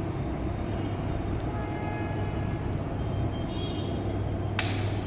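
Single-cylinder motorcycle engine running steadily at a constant low speed, with no revving. There is one sharp click about four and a half seconds in.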